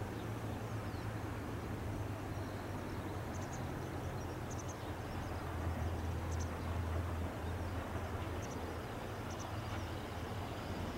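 Ohmi Railway electric train 101F approaching across open fields, heard from afar as a low steady hum that swells a little around the middle. A few short high chirps sound over it.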